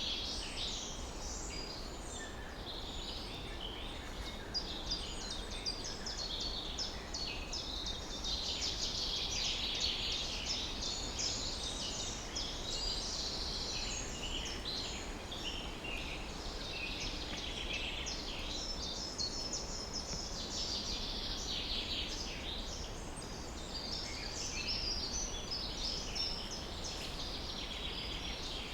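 Dense dawn chorus of many small songbirds, chirping and trilling without a break, over a faint low rumble.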